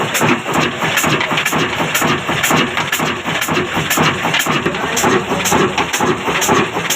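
Old black stationary diesel engine running steadily, with regular firing knocks about two to three times a second.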